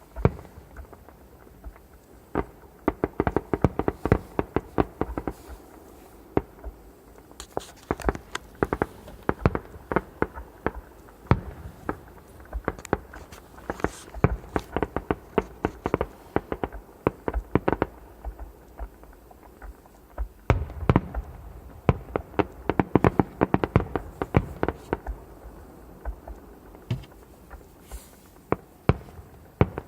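Fireworks display going off: dense clusters of sharp bangs and crackles, in rapid runs broken by brief lulls.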